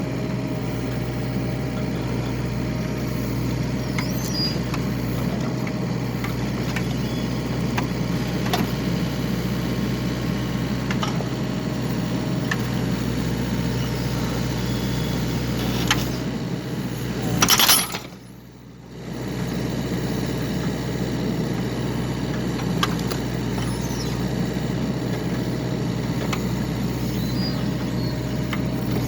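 Excavator diesel engine running steadily while splitting firewood, with scattered light knocks and clicks. A little past halfway a short louder rush comes, then the engine sound drops away for about a second before resuming.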